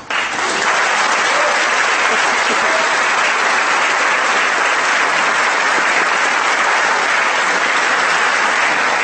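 Audience applauding, a sustained dense clapping that starts abruptly and holds steady.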